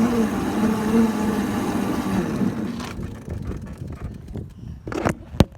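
Battery-powered ride-on vehicle running, its electric motor whining under wind noise, then cutting off about three seconds in. A few sharp clicks and knocks follow near the end.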